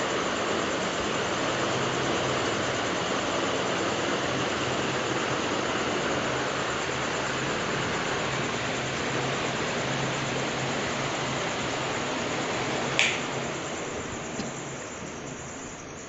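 Usha Trump Plus ceiling fan running: a steady rush of air with a low motor hum. A sharp click about thirteen seconds in, after which the sound slowly grows quieter.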